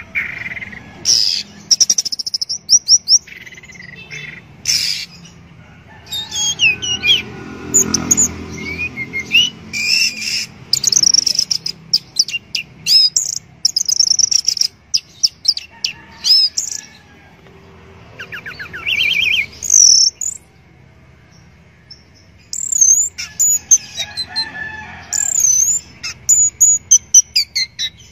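Orange-headed thrush singing a varied song of quick whistled phrases, rapid trills and chirps, in bursts separated by short pauses.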